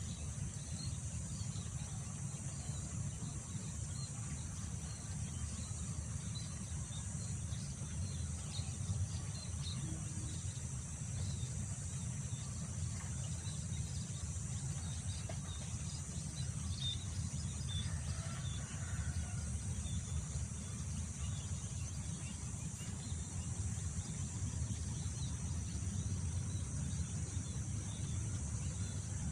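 Wind rumbling on the microphone under a steady high drone of insects, crickets among them, with scattered short bird chirps throughout.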